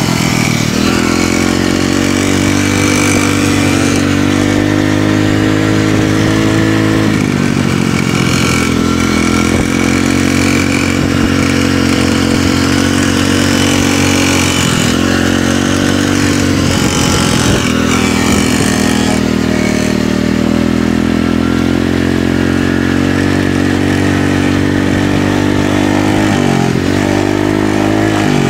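Small dirt-track motorcycle engine, pit-bike size, running hard at a steady high pitch. A few times the pitch dips and climbs back as the throttle is eased and reopened.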